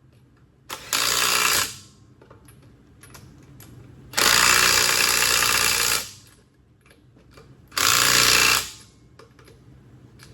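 A power tool run in three bursts, about a second, two seconds and a second long, with light clatter between them, while a diff bushing is being driven in.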